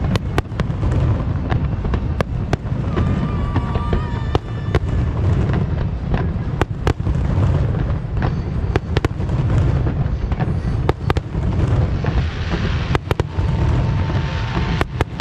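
Large fireworks display: many sharp bangs over a continuous low rumble of shells bursting, with a few brief whistling tones.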